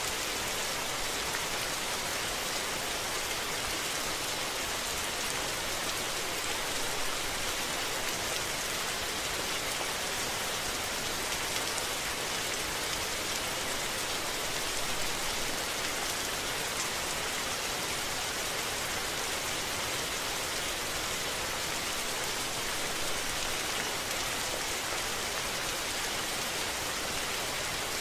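Rain falling steadily, an even hiss of drops that stays level throughout, with no thunder.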